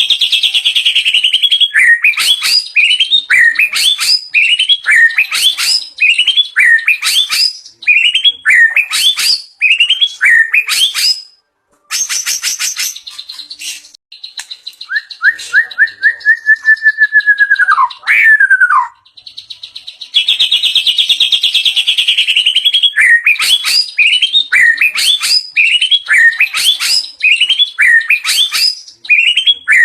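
White-rumped shama (murai batu) singing loudly, running through its learned repertoire. It repeats sharp downward-swept notes about twice a second, breaks into a buzzy rattle about halfway through, then holds a long steady whistle that drops at its end, before the quick repeated notes return.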